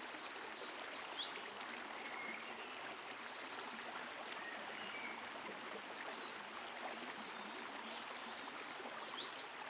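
Forest stream flowing steadily, with a bird singing runs of short high notes at the start and again near the end, and a few faint chirps in between.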